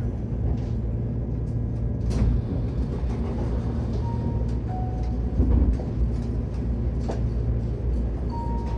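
Keihan 10000 series electric train heard from inside the car, running with a steady low rumble and scattered clicks from the wheels on the track as it comes into a station, with a heavier knock about halfway through. A short two-note tone, the second note lower, sounds about four seconds in and again near the end.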